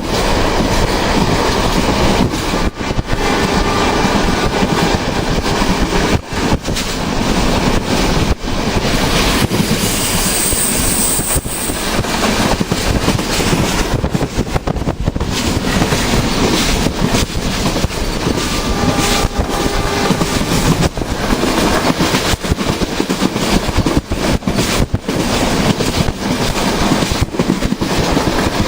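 Train running on the rails, a loud continuous rumble of wheels and track noise, with a brief high squeal about ten seconds in.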